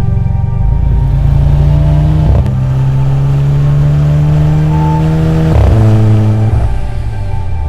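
Volkswagen Golf GTI MK7's turbocharged four-cylinder engine through an Akrapovic Evolution titanium exhaust, accelerating hard: the pitch climbs steadily and drops sharply at upshifts about two and a half and five and a half seconds in.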